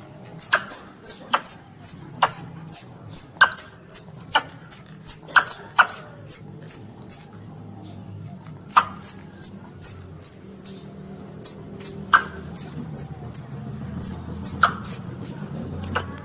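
Baby Asian palm civet (luwak) calling: rapid, short, high-pitched squeaks, about two or three a second, over a faint low hum. They break off for a second or so about seven seconds in, then resume.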